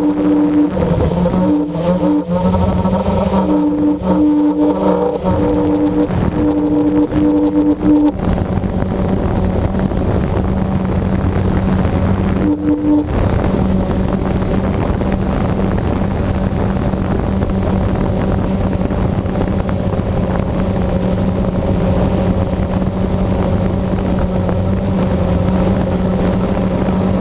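Blade 350QX quadcopter's electric motors and propellers whirring steadily, heard from the GoPro on board, with a higher tone that cuts in and out during the first eight seconds.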